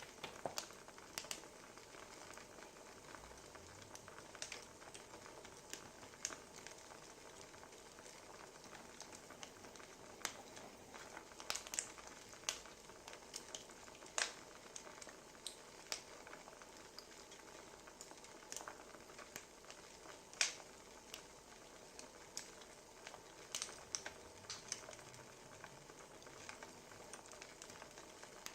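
Wood fire crackling: a faint steady hiss with irregular sharp pops and snaps, a few louder ones scattered through.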